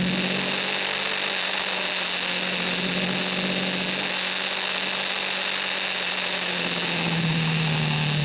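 KTM RC 390's single-cylinder engine running at a steady cruise, holding one pitch, then easing off near the end as the pitch drops a little. A steady high hiss runs under it.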